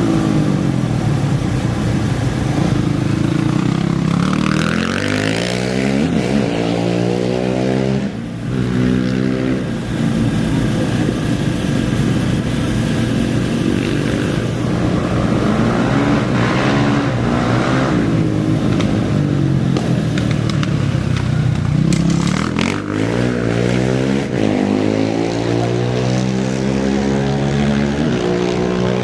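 Off-road racing engines revving hard and climbing through the gears as racers pull away from the start one after another, each run-up rising in pitch and then dropping at a shift.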